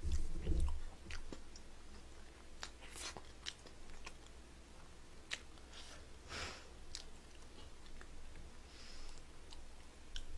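Quiet close-miked chewing of rice mixed into braised chicken sauce: soft, scattered wet mouth clicks and smacks.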